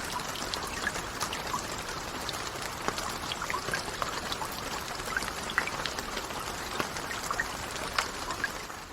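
Steady rain with many individual drops ticking sharply through a constant hiss, beginning to fade out near the end.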